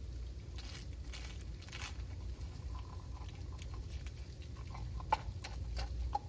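German Shorthaired Pointer puppy chewing a chunk of ice, with irregular crunches and sharp cracks.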